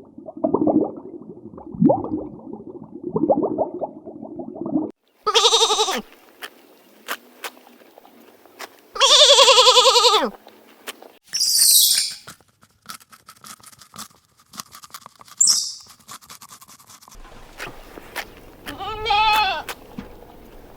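A string of separate animal bleats with a wavering pitch, the loudest about nine seconds in and another near the end, with lower calls in the first few seconds and brief high hissing bursts in between.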